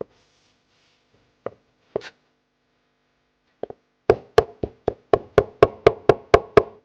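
Kitchen knife chopping on a cutting board: a few separate knocks, then a quick, even run of about a dozen strikes, about four a second, over the last three seconds, as wild greens are chopped fine for the dough.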